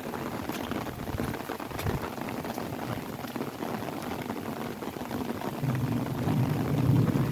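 Steady rain falling on an umbrella, with single drops ticking sharply through the hiss. A louder low rumble swells in near the end.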